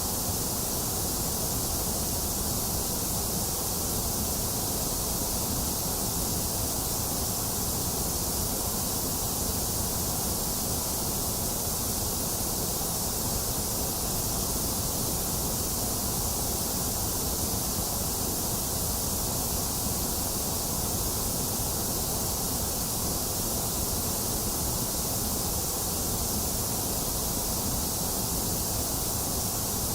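Steady, unchanging synthetic white noise: an even hiss with no variation.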